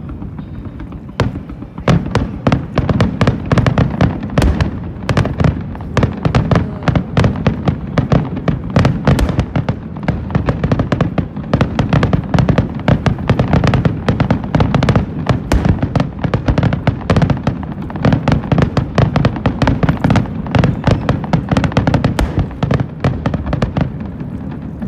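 Fireworks display at its height: a dense run of sharp bangs and crackles, several a second, over a continuous low rumble. It starts about a second in and eases off near the end.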